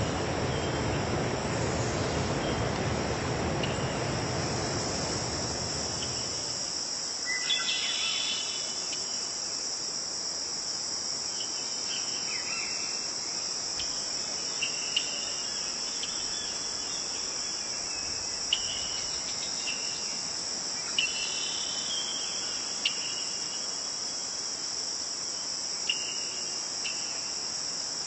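A steady, high, continuous chorus of insects chirping, like crickets at night. A broad low rushing noise underneath cuts off about six seconds in. After that, scattered short chirps and a few sharp clicks sound over the chorus.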